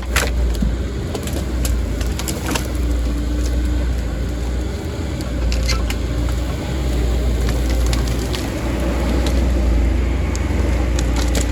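Heavy diesel machine engine running steadily, with scattered sharp cracks and knocks over it.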